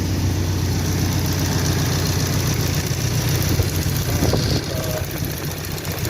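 1998 Toyota 4Runner four-cylinder engine idling steadily. The engine has a misfire that the mechanic traces to spark arcing from a damaged plug wire onto the spark plug tube.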